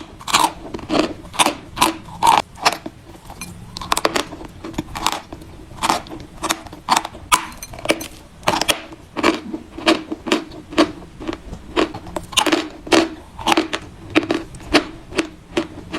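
Chalk being chewed close to the microphone: a steady run of crisp crunches, about two a second.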